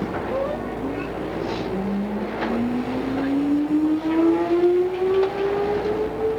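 Odakyu 2600 series electric train accelerating: a motor whine climbs steadily in pitch from about two seconds in, over the steady rumble of the running train, with a few short clicks from the wheels.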